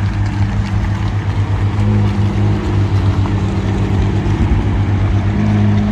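A car engine running steadily at low revs, with a deep, even hum that drifts slightly up and down in pitch.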